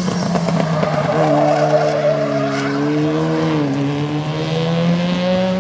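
Race car engine held at high revs while its tyres squeal and skid, as in drifting; the engine pitch dips briefly about three and a half seconds in, then climbs again near the end.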